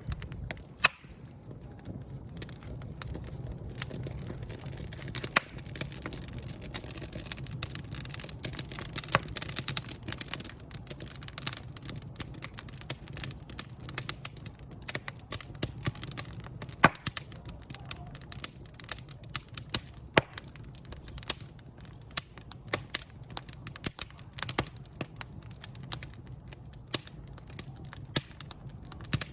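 Wood fire burning in a fireplace, crackling steadily with frequent sharp pops and snaps over a low rumble of the flames.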